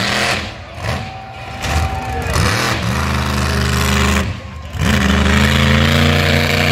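Monster truck engine running hard at high revs, held in long steady pulls with a brief drop in the throttle about four and a half seconds in.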